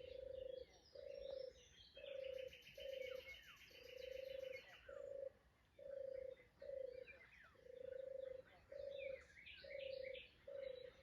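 Frogs croaking: a steady series of about a dozen short, low, rattling calls, with birds chirping and a high trill above them. Faint.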